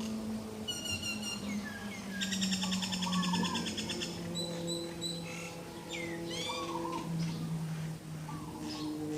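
Morning birdsong: several birds chirping, with a rapid trill about two seconds in and quick up-and-down whistled calls later. Long low steady droning tones run underneath and shift in pitch now and then.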